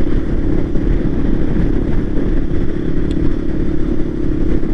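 Voge 300 Rally motorcycle's single-cylinder engine running at a steady cruise while riding, with a constant hum and road noise.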